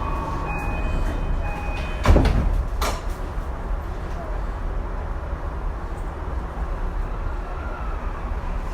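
Running noise inside a Tokyu 2020 series commuter train: a steady wheel and track rumble with faint motor tones that stop about a second and a half in. About two seconds in there is a sudden loud whoosh and thud, with a sharp falling pitch.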